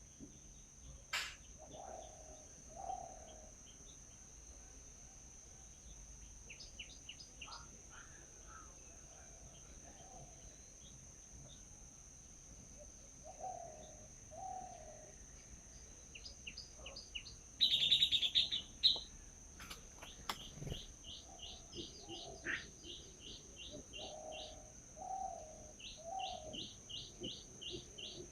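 Birds calling: quick runs of short, high chirps repeated several times a second, mixed with pairs of lower notes, and a louder burst of chirping about two-thirds of the way through. A steady high-pitched tone sounds underneath.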